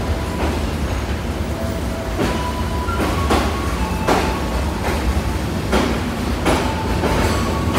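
Economy passenger coaches of a departing train rolling past at low speed, with a steady low rumble and wheels clacking over rail joints about once a second, irregularly.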